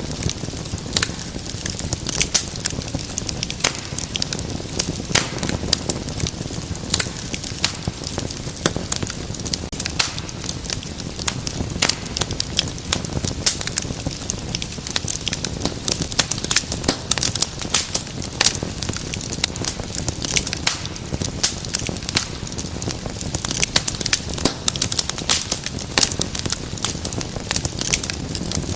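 Wood fire burning in a fireplace, with dense, irregular crackles and pops over a soft low rumble of the flames.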